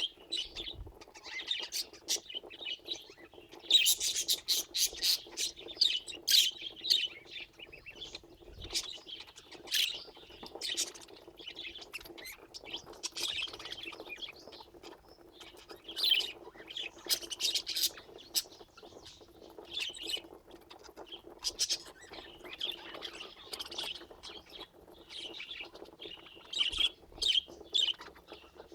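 Budgerigars chirping and chattering: rapid, high-pitched calls that come in bursts and overlap, with short lulls between. A steady low hum runs underneath.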